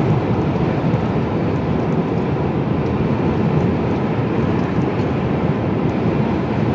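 Steady running noise of a Mercedes-Benz Actros lorry on the move, heard from inside the cab: an even drone of engine and road noise with no change in speed.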